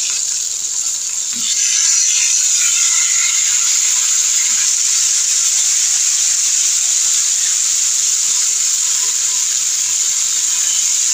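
Potato wedges and pointed gourd slices sizzling steadily in hot oil in a wok, the sizzle getting louder about two seconds in as more potatoes go into the pan.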